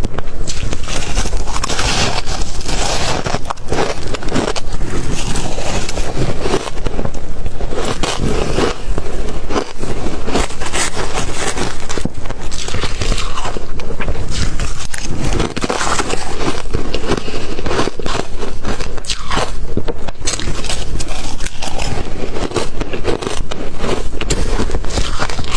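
Ice being bitten and chewed: loud, continuous crunching and crackling.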